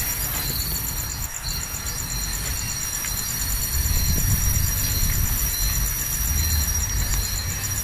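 Insects trilling steadily in a high, rapidly pulsing chorus, over a low rumble.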